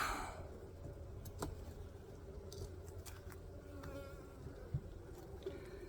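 Honey bees buzzing steadily around an open hive, with a few light clicks scattered through.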